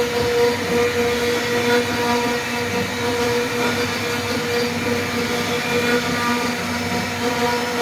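CNC router spindle cutting wood, a steady motor whine over the hiss of the cutting.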